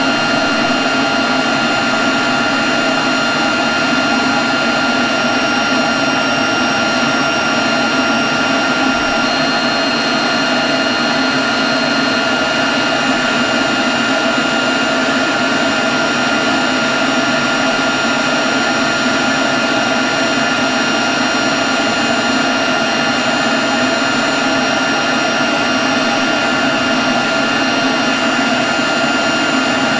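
Leaf blower running steadily at constant speed: a continuous rush of air with a steady high whine over it.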